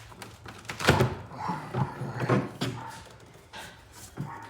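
Several dull knocks and thunks of hard objects being handled, the loudest about a second in and a few more spread through the rest.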